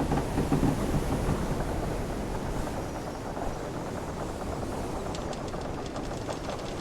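Wooden sailing ship's timbers creaking over a steady rush and rumble of ocean waves. The creaking is strongest in the first second, and a run of short wooden clicks and ticks comes near the end.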